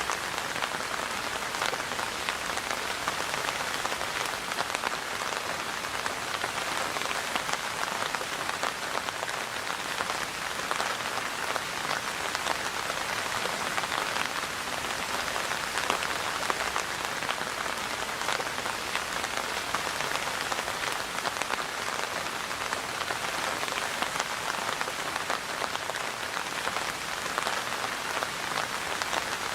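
Steady rain falling, with many individual drops ticking on a surface through an even hiss.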